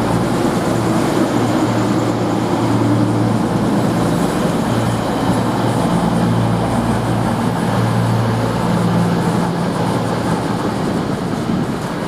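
Two coupled CrossCountry Class 220 Voyager diesel-electric multiple units pulling into the platform. The underfloor diesel engines keep up a steady low drone under the general rumble of the train.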